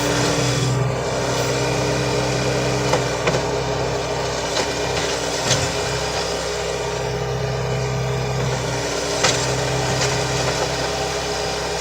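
Mahindra compact tractor's diesel engine running steadily, with a few short clanks over it.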